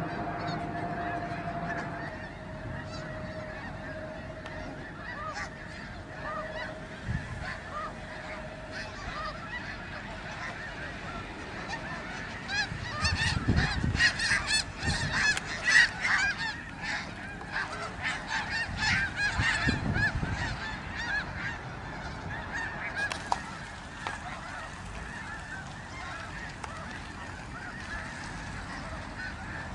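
A large flock of snow geese honking, a dense overlapping chorus of calls that swells louder and busier for several seconds in the middle before settling back.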